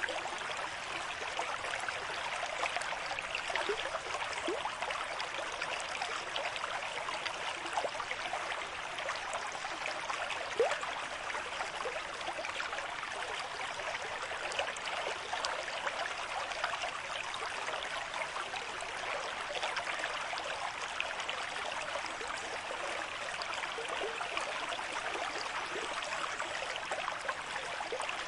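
River stream flowing at a moderate pace, a steady rush of water with fine gurgles and splashes throughout.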